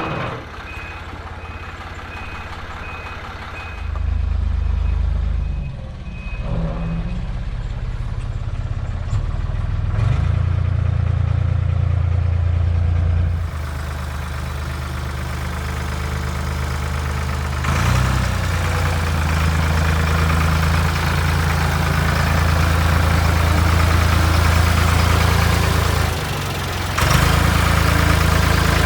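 Forklift engine running under load while it moves a heavy machine, revving up at about four seconds, again around ten and eighteen seconds, and easing off in between. For the first several seconds an evenly repeating high back-up beeper sounds over it.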